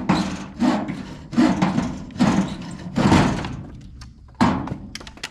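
Hand saw cutting through wood from a downed tree, about six even back-and-forth strokes, stopping about four and a half seconds in.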